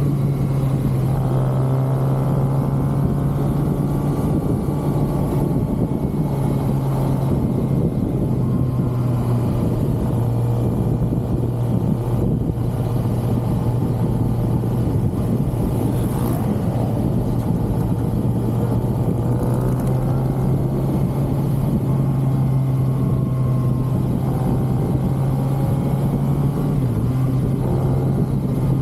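2023 Kawasaki ZX-6R inline-four through its stock exhaust, running steadily under way, with a few mild rises and falls in engine pitch.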